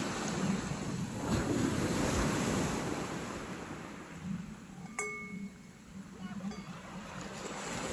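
Surf washing in and receding in slow swells, with wind buffeting the microphone. A single short, ringing click about five seconds in.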